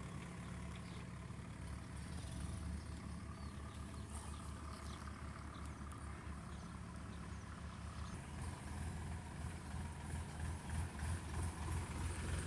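Heavy diesel engine running at idle with a low, pulsing rumble that grows louder over the last few seconds.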